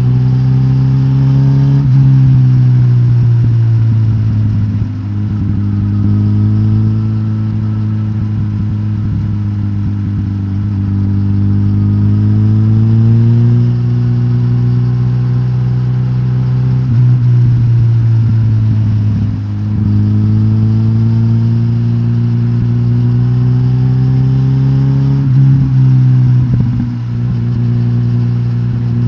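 Suzuki GSX-S1000GT's K5-derived inline-four engine, de-catted with the stock exhaust, running under way. Its pitch climbs slowly and then drops back several times, at about 5, 13, 17, 19 and 25 seconds in, as the bike shifts up or rolls off the throttle.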